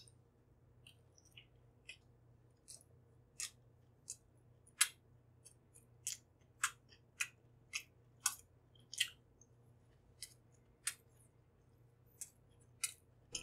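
Crisp chewing crunches of a sugar-topped banana muffin, about one or two a second, faint for the first few seconds and then louder. A low steady hum runs underneath.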